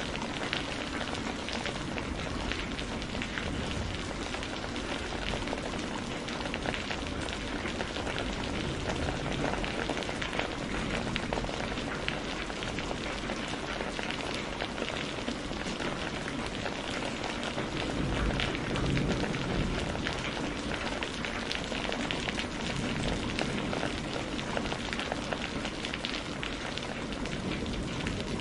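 Steady rain falling, mixed with the fine crackle of a wood fire. A low rumble swells briefly about two-thirds of the way in.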